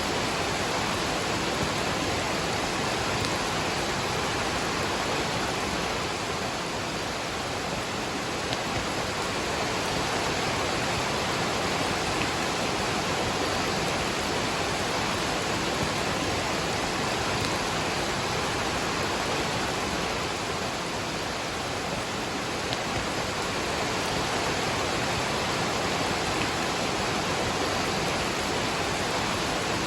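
Waterfall and rain: a steady, even rush of falling water with no pauses.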